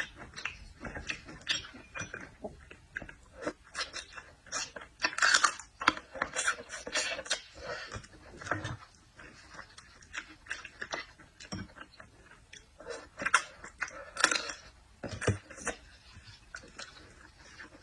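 A person chewing and eating seafood: an irregular run of wet smacks, clicks and small crunches, busiest about a third of the way in and again near three quarters.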